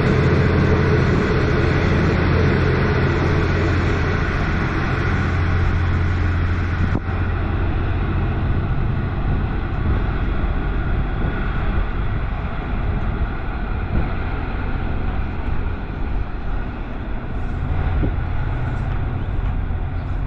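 V/Line diesel train running steadily, a low engine hum under a broad rushing noise.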